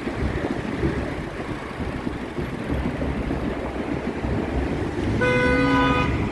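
Steady wind and road rumble, then about five seconds in a vehicle horn sounds one steady honk lasting under a second.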